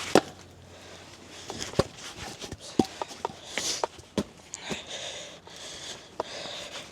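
Wood being struck by hand while a wedge is shaped to split a log: irregular sharp knocks and taps, the loudest right at the start, with rustling noise in between.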